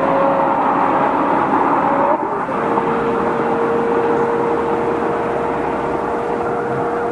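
Porsche Carrera GT's V10 engine running at a steady pitch. Its note breaks briefly about two seconds in, then settles at a slightly lower steady pitch.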